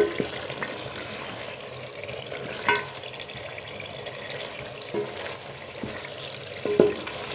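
Chicken curry masala sizzling in oil in a metal pot while being stirred with a metal spoon. The spoon knocks against the pot a few times, once with a short metallic ring.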